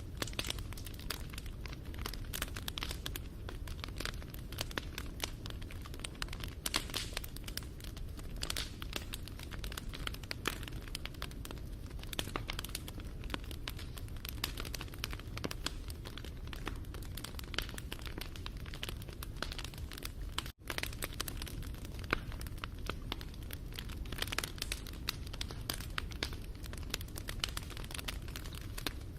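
Wood fire crackling and popping steadily, with dense irregular snaps over a low rumble. The sound drops out for a split second about two-thirds of the way through.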